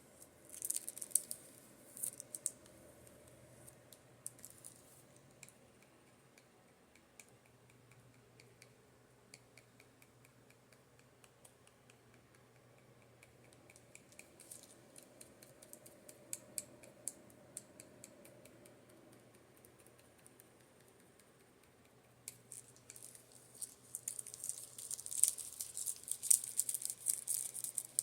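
Quick, light tapping on makeup brushes, in dense flurries near the start and over the last few seconds and sparser in between. A fan hums steadily underneath.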